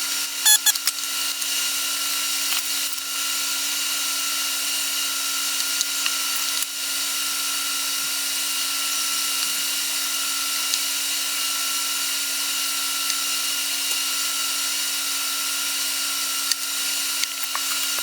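A small electric motor running steadily, giving an even hum with a higher whine over a hiss, with a few light clicks near the start.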